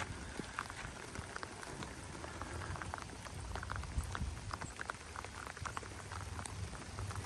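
Light rain pattering, heard as many small, scattered drop ticks over a low rumble.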